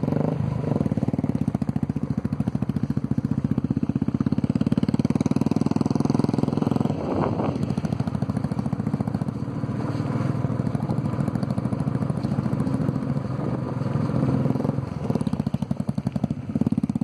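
Royal Enfield single-cylinder motorcycle engine running steadily under way, heard from the rider's seat as a fast, even pulsing throb.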